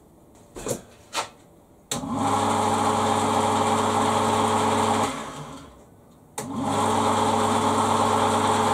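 Electric lathe motor, rewired on the bench, switched on with a click about two seconds in and running with a steady hum, then switched off and winding down, and started again about six seconds in. These are test runs after swapping its winding wires, to check which way it turns. Two light clicks come before the first start.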